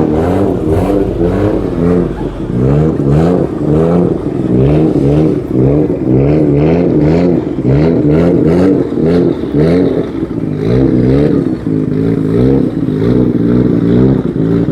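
Car engine being revved over and over, its pitch rising and falling in quick blips, one or two a second.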